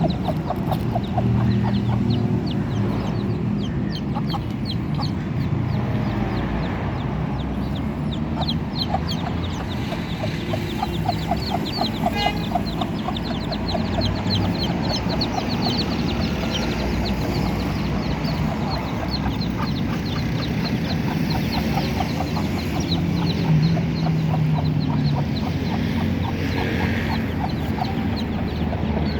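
Domestic chicks peeping constantly in many short, high chirps, while a mother hen clucks low among them.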